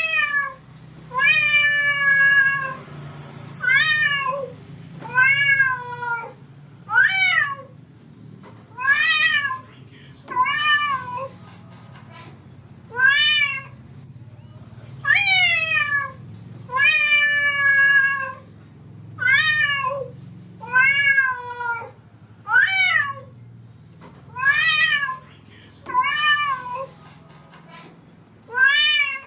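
A cat meowing over and over, about one call every second or two; each meow rises and then falls in pitch.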